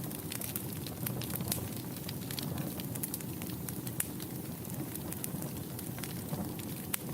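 Wood fire burning in a fireplace: a steady low rumble of flame with many small, irregular pops and crackles.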